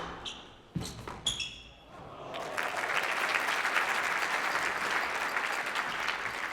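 Two sharp squash ball strikes about a second in, ending the rally, followed from about two seconds in by steady audience applause.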